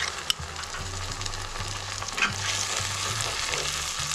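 Onion, ginger and garlic paste sizzling in hot oil in a pan as it is stirred, with a couple of sharp clicks near the start.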